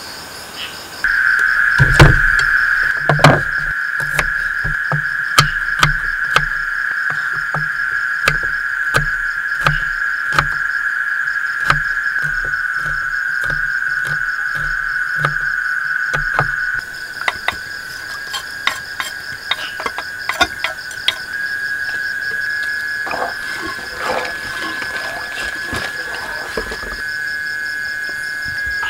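Steady insect chirring, with a series of sharp knocks repeating through the first half and scattered clicks and knocks later.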